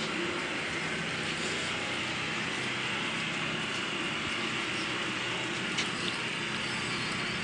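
CNC plasma cutting machine at work: a steady hiss over a low hum, with two faint clicks near the end.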